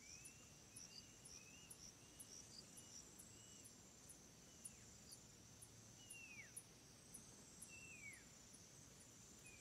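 Faint forest ambience of insects: a steady high hum with regular high chirps about two to three times a second. Short whistled calls that rise or fall in pitch sound every second or so.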